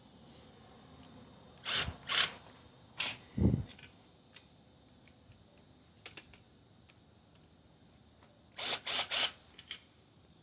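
A cordless impact gun run in short bursts on small bolts: two bursts about two seconds in, a heavy clunk a little later, then three quick bursts near the end.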